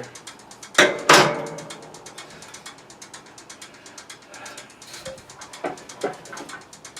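Fast, even mechanical clicking, about ten clicks a second, with two loud metal clanks about a second in.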